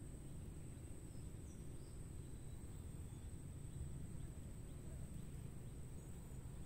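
Insects trilling in one steady high-pitched note over a faint low rumble.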